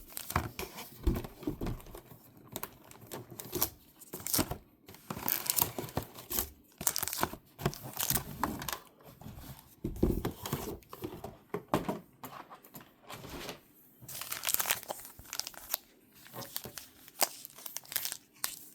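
Crinkly plastic and foil packaging of Pokémon booster packs rustling and crackling in irregular bursts as the packs are handled.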